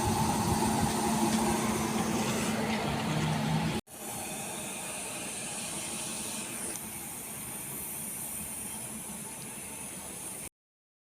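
Steady hum and hiss of a MEMU electric train, with a couple of steady tones in it. About four seconds in the sound cuts abruptly to a quieter steady hiss, which stops dead shortly before the end.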